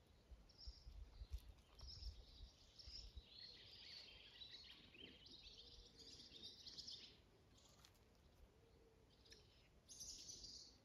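Faint songbird twittering, in short high chirping phrases through most of the clip and again near the end.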